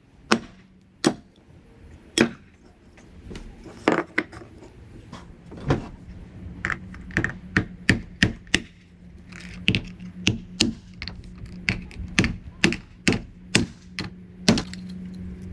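A series of sharp, irregular knocks and taps, about one or two a second. A steady low hum sets in underneath about five seconds in.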